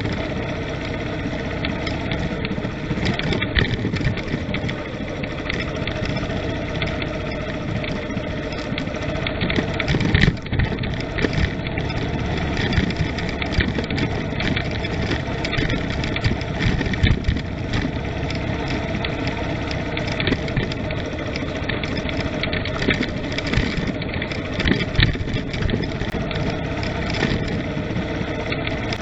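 A vehicle's engine running steadily while driving, with frequent short knocks and jolts over the road surface.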